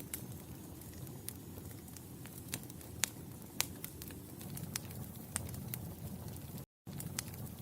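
Wood fire crackling in a fireplace: irregular sharp pops and snaps over a steady low rumble of the flames. The sound cuts out completely for a moment near the end.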